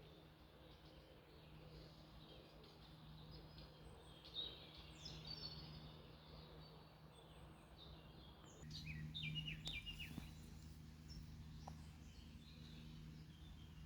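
Small birds chirping faintly in short high calls, a scattered run about four to six seconds in and a busier cluster around nine to ten seconds, over a faint steady low background hum.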